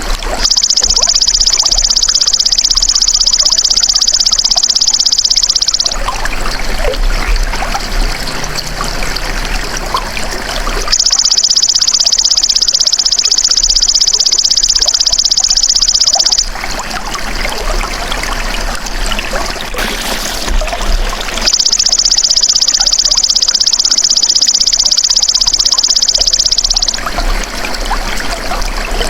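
Belalang emas (golden grasshopper) insect song: a loud, high buzzing trill in three bouts of about five and a half seconds each, with about five seconds between them. A steady trickle of running water goes on underneath.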